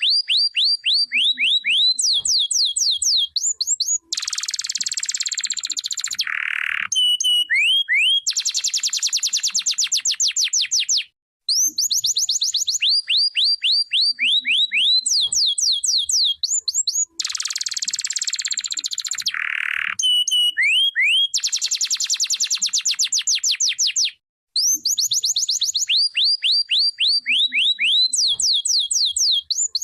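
Domestic canary singing a long, loud song: runs of quick falling whistled notes alternating with dense buzzy rolls and trills. The same song sequence repeats about every twelve seconds, with a brief break before each repeat.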